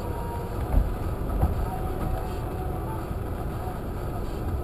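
Steady low rumble of a car's engine idling, heard from inside the cabin, with two short thumps about a second in.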